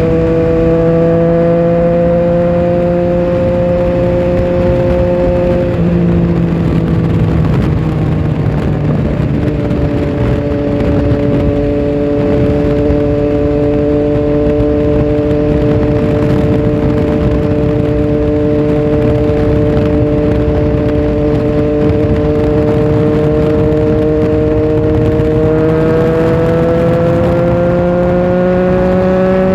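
Triumph Tiger Sport 1050's three-cylinder engine heard from on board while riding, over a steady rush of noise. The engine note climbs a little, drops about six seconds in, holds steady at a cruise, then rises again near the end as the bike accelerates.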